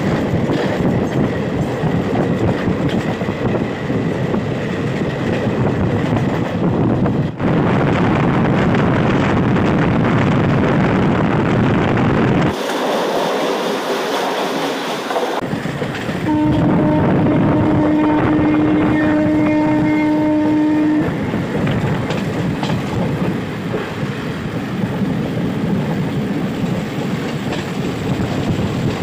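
An Indian Railways passenger train running at speed: a steady rumble and clatter of wheels on rail. Partway through, a train horn sounds one long steady blast of about four to five seconds.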